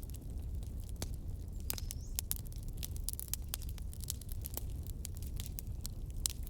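Wood logs burning in a fireplace: a steady low rumble of the flames with many irregular sharp crackles and pops.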